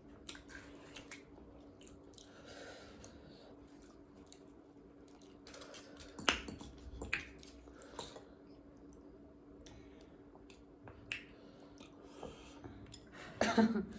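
Quiet eating sounds: chewing and mouth smacks, with scattered sharp clicks every second or so.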